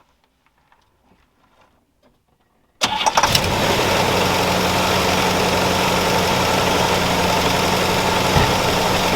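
The 1963 Cadillac Coupe de Ville's 390 V8, already warmed up, cranks briefly and catches about three seconds in, then idles steadily.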